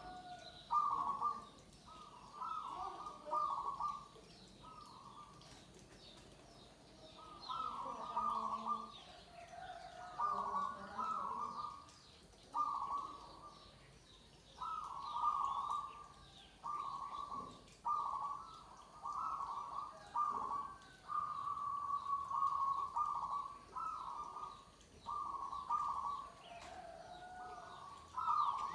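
Zebra doves (perkutut) cooing, one short phrase of rapid coos after another, about one a second, with some overlapping as if from several birds.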